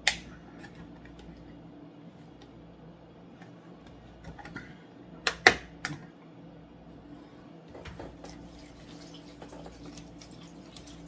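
Kitchen handling sounds during cooking: a sharp knock at the start, a cluster of three or four knocks about five seconds in, and light scattered clicks and clatter, over a steady low hum.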